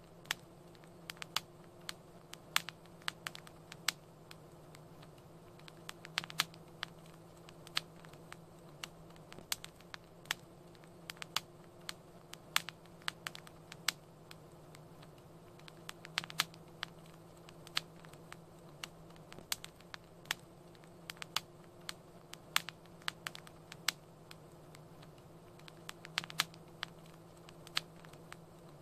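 Fire in a fireplace crackling: irregular sharp pops and snaps, some in quick clusters, over a faint steady low hum.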